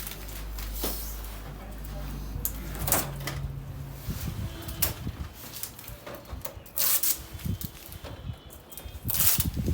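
Packaging being handled: scattered knocks and clicks, with short rustles about seven and nine seconds in.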